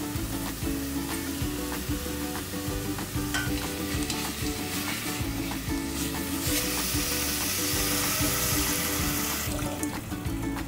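Diced vegetables and canned tuna sizzling as they are stir-fried in a stainless steel pot, with a wooden spatula stirring. The sizzle grows louder from about six to nine and a half seconds in, over background music.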